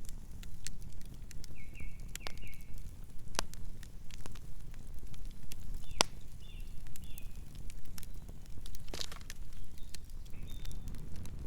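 Campfire burning, with irregular sharp crackles and pops from the wood over a steady low rumble, and a few short high squeaks among them.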